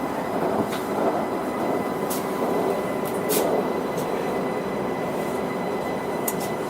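Linimo HSST maglev train running, heard inside the car: a steady hum with no wheel or tyre noise, a thin steady whine above it and a few faint clicks.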